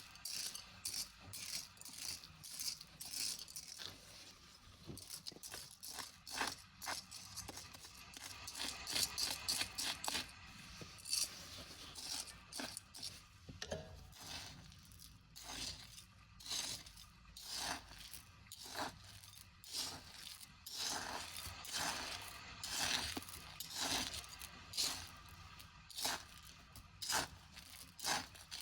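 Beach debris and trash being picked through by hand: small hard pieces rattling, clicking and scraping against each other in irregular bursts.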